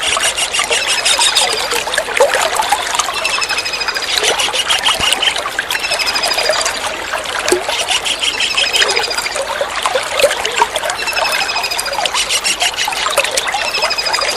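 Kingfisher calls: short, rapid series of high notes repeated every second or two, over steady trickling water.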